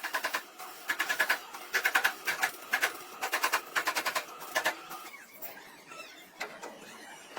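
Quick runs of light hammer taps on sheet metal, several a second, thinning to a few scattered taps after about five seconds.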